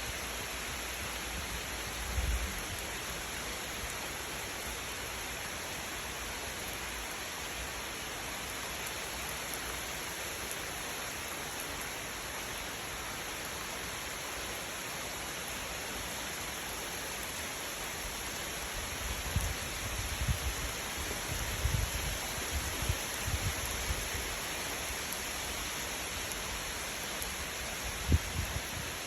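Steady hiss of falling rain. Low rumbling bumps come and go a couple of times, with one sharper thump near the end.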